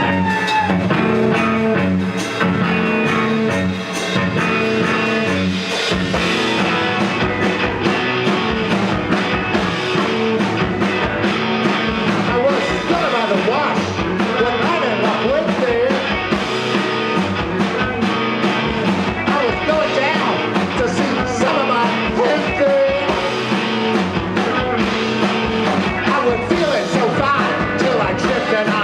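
Live rock band playing loudly; the drums come in about six seconds in and the full band drives on from there.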